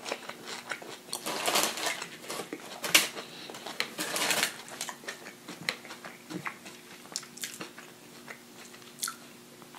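Close-up mouth sounds of someone chewing crispy fried food: irregular crunches and wet clicks, with the hand picking up a beer-battered onion ring from its paper wrapper about four seconds in.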